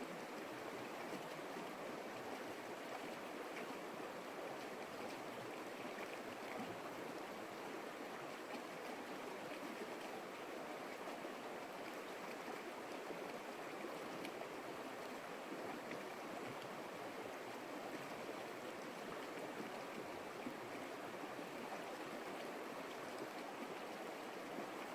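Water of a stream flowing steadily over stones, an even, unbroken noise with no change.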